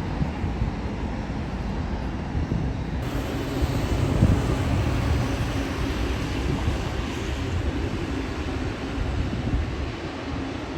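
Jet airliner engine noise, a steady rumble with wind buffeting the microphone. About three seconds in the hiss turns suddenly brighter.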